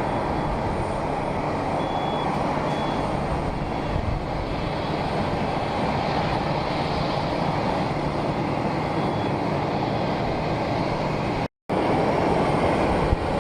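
Steady jet aircraft engine noise, an even rumble with no distinct strokes or pitch glides. It cuts out completely for a split second about eleven and a half seconds in.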